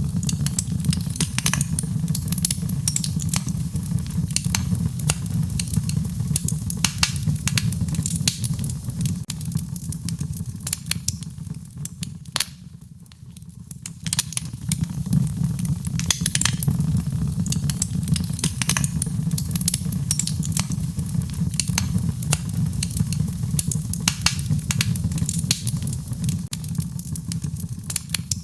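Fire burning in a fireplace: constant irregular crackling and popping over a low steady rumble. It briefly dies down about halfway through, then picks up again.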